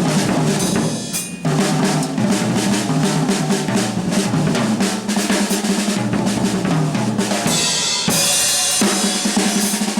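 Jazz drum kit played busily in a live combo, with rapid snare, bass-drum and rimshot strokes over held low organ notes. A bright cymbal wash swells for about a second late on.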